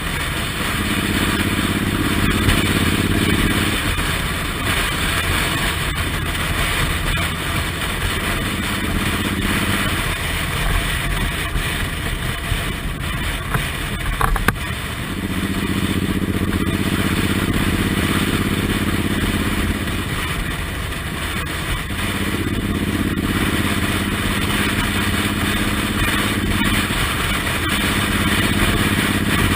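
Suzuki Intruder M1800R's V-twin engine running on the road, over a steady rushing noise. Its note strengthens and fades in stretches of a few seconds, and there is a single sharp click about halfway through.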